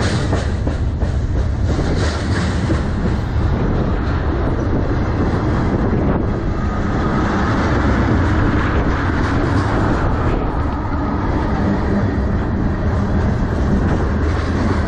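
Freight train cars rolling past close by: a steady, loud rumble of steel wheels on the rails with a clickety-clack over the rail joints.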